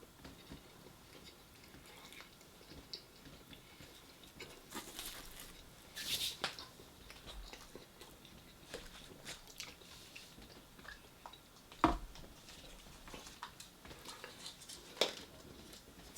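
A person chewing and biting into a deep-fried chimichanga close to the microphone, with scattered small crunches and mouth clicks. There is a sharper, louder crunch or knock about twelve seconds in and another about fifteen seconds in.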